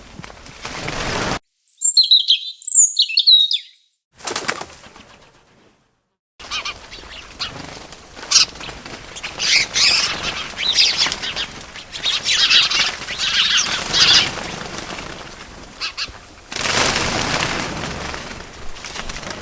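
Small birds chirping. There are a few loud, sharp two-part chirps on silence about two seconds in, then more chirping over an outdoor background. Brief rushing noise bursts come about four seconds in and again near the end.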